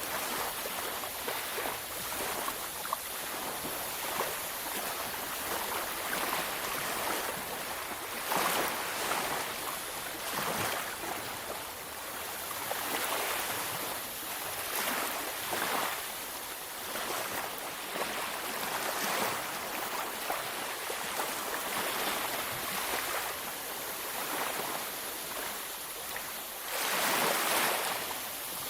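Ocean waves breaking and washing up a beach in a steady hiss, swelling with each wave every few seconds, the biggest surge near the end.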